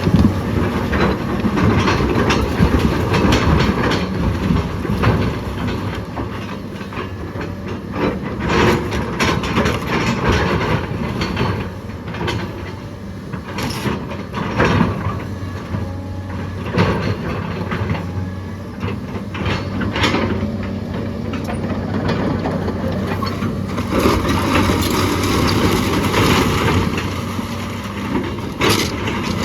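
A heavy machine's engine running steadily under load while wood and debris crack, knock and clatter again and again as the old house is pulled down.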